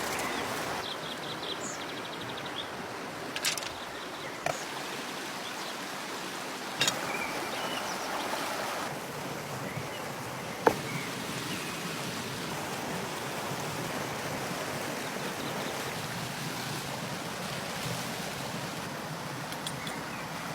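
Stream water flowing steadily, with a few short sharp knocks, the loudest about ten seconds in.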